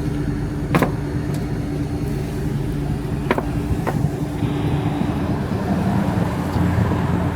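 A car engine idling with a steady low hum, broken by a few sharp clicks or knocks.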